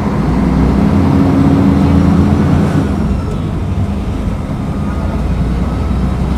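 Diesel engine of a Mercedes-Benz O500UDA articulated bus pulling under acceleration, rising in pitch and loudness for the first couple of seconds. Its note drops back about three seconds in, then it pulls steadily again.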